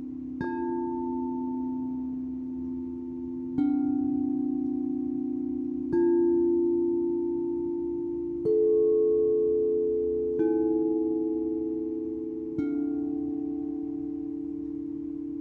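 Singing bowls struck six times, two to three seconds apart, on different pitches. Each note rings on and fades slowly, overlapping the next.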